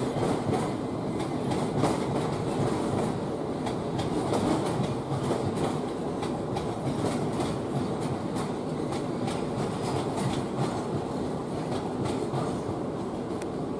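London Underground S7 Stock train running slowly over pointwork and crossings, wheels clicking irregularly over the rail joints above a steady rumble.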